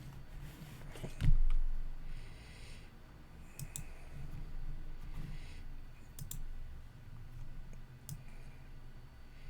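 A few sharp computer mouse clicks, spaced a couple of seconds apart, with a low thump about a second in.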